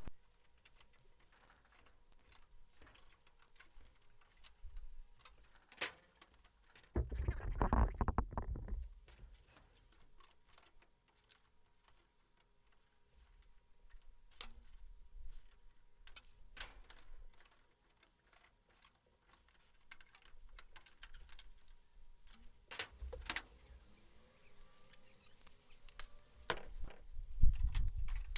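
Scattered small metallic clicks and taps of a thin aluminium angle being crimped and worked by hand with crimping pliers, with a louder low rumble of handling a little way in and again near the end.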